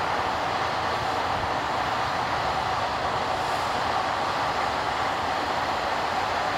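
Jet engines of an arriving Boeing 747 freighter: a steady, even rushing noise that holds at one level without rising or falling.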